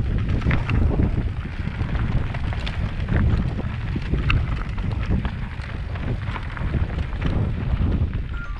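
Wind buffeting the microphone: an uneven low rumble that rises and falls, with a few light clicks scattered through it.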